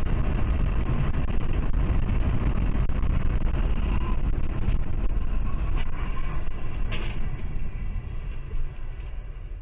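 A car driving, with steady engine and road noise that fades near the end, and one short sharp sound about seven seconds in.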